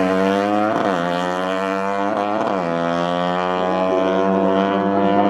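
Racing motorcycle engine held at steady high revs, a droning note, with two quick throttle blips about one and two and a half seconds in.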